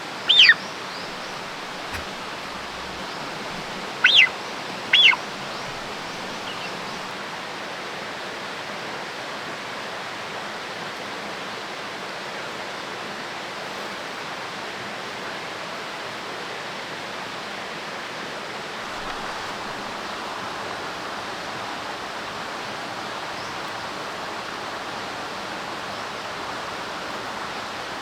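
A goose honks loudly once at the start and twice more at about four and five seconds in. After that there is only a steady, even hiss.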